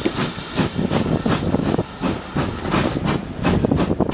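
Steam train on the Severn Valley Railway running under way, its beats coming evenly at about three a second over a steady rumble and hiss.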